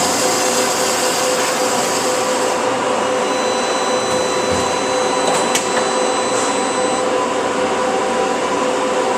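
Horizontal band saw running steadily with its blade in a notching cut, a constant motor and blade hum, with a thin high whine joining in from about three seconds in until about seven.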